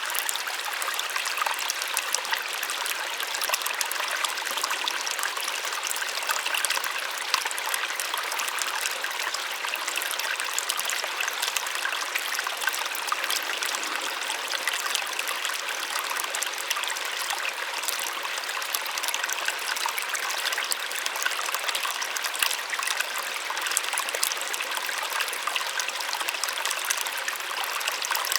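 Small waterfall splashing steadily, a soft, even rush of water with no low rumble.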